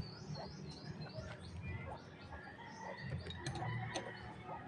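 Small birds chirping repeatedly, many quick short chirps, some dropping in pitch, thickest in the first half. A few sharp clicks come about three and a half to four seconds in.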